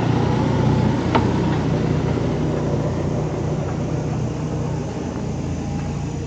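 A vehicle engine running steadily at a low, even hum, slowly growing quieter, with a single sharp click about a second in.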